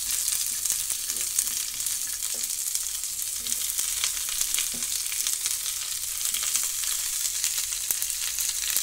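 Thick stem pieces of chopped Chinese cabbage and slices of garlic sizzling steadily in hot butter in a frying pan, with small crackles.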